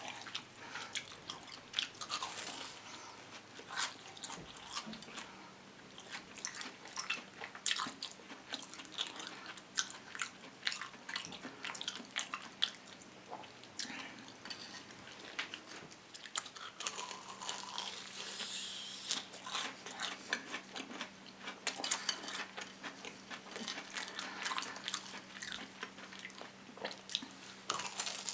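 Close-miked crunching and chewing of a fried cheese dog with a crushed-crisp crust: many irregular sharp crunches between wetter chewing.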